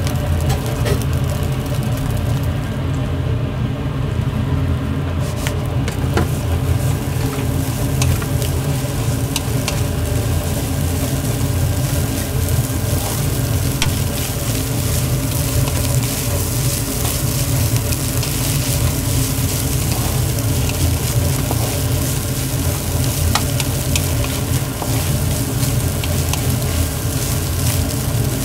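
Mie goreng (fried noodles) sizzling and being stirred in a hot pan, with scattered sharp clicks of the utensil, over a steady low rumble.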